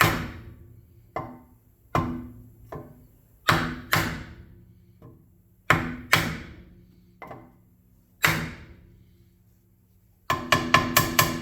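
Hammer striking a bent cast-aluminium motorcycle rim, each blow ringing out and dying away: about a dozen spaced strikes, then a quick run of lighter taps near the end. The bent rim lip is being knocked back into shape.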